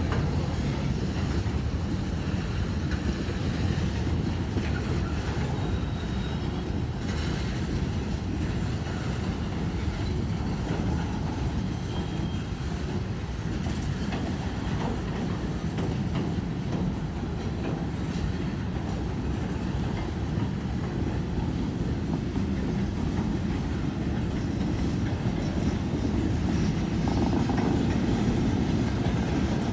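Train rolling past steadily, its wheels clacking on the rails over a continuous low rumble.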